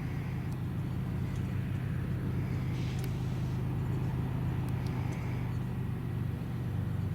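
Piston engine running steadily at constant speed, a low, even drone.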